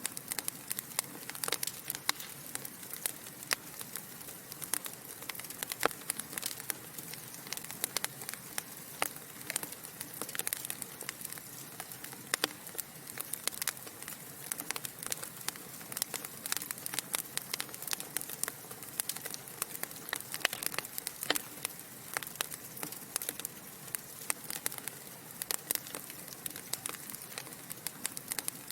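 Wood fire burning in a fireplace: a steady soft hiss with frequent irregular sharp crackles and pops from the burning logs.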